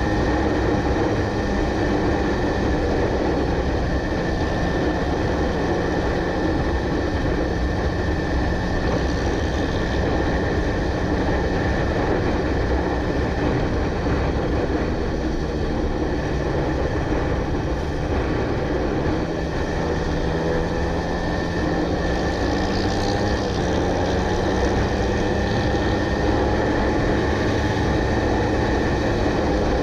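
Motorcycle engine running steadily under way, with a constant rush of wind noise and a slight, slow drift in engine pitch.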